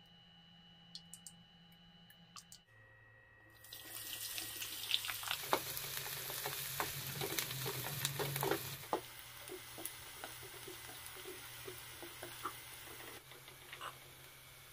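Sliced onions sizzling in hot oil in a nonstick frying pan, with the clicks and scrapes of a spatula stirring them. The sizzle starts about four seconds in, is loudest for the next five seconds or so, then carries on more softly.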